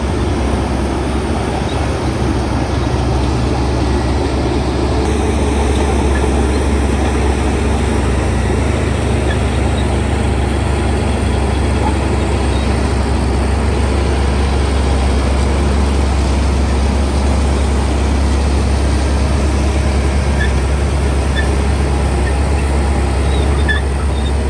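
Shantui bulldozer's diesel engine running steadily with a deep, unbroken low drone.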